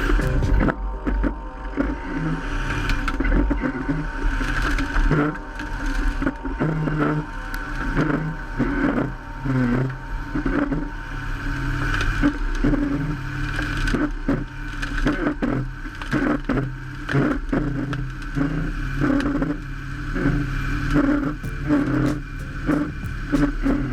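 Lifted Ford F350 diesel truck running and driving over cars, with repeated cracking and crunching as the car bodies are crushed.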